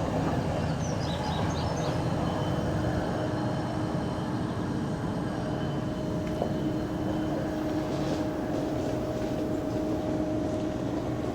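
Freight train running: a steady low rumble with a constant hum, from an empty CSX coal train.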